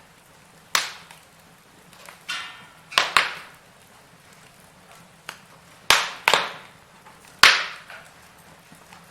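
Firewood burning in a fireplace: about eight sharp pops and cracks, a second or so apart and each dying away quickly, over a faint hiss. The loudest crack comes near the end.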